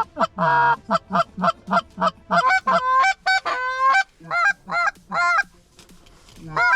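Canada goose honks and clucks in a rapid, loud run of short calls, many with a sharp break in pitch, a few held a little longer, easing off briefly near the end.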